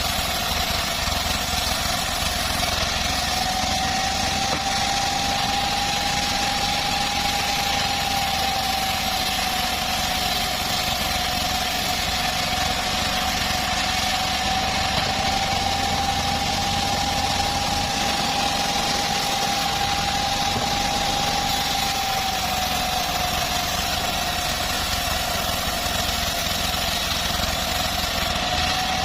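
Homemade bandsaw sawmill and its engine running continuously, with a steady whine that drifts slightly in pitch over an even mechanical din.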